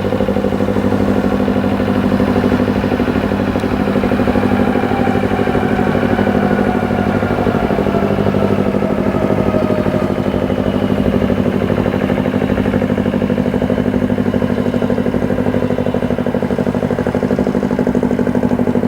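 Outboard motor running steadily, its beat pulsing evenly. Between about four and ten seconds in, a second boat engine passes with its pitch falling.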